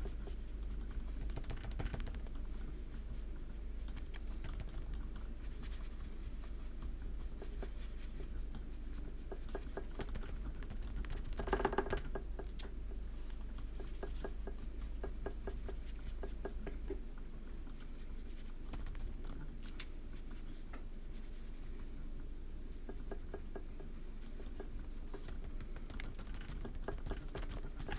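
Quick, soft scratching and tapping of coloring strokes on paper, a run of small ticks with a steady low hum underneath and a slightly louder rustle about twelve seconds in.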